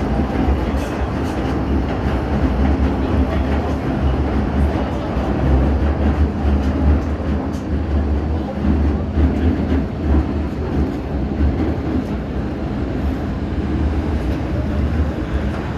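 MTR Tsuen Wan Line M-Train electric multiple unit running through the underground tunnel: a steady, loud rumble of wheels and running gear on the track.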